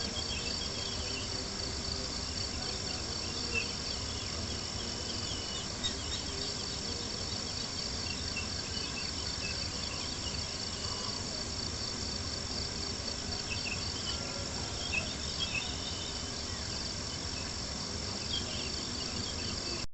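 Crickets chirping in a steady, continuous pulsing chorus, with a few sharp pops from a crackling campfire over a low steady rumble.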